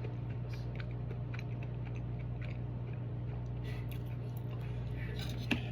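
Light scattered clicks and taps of a spoon against a plate while eating, over a steady low hum.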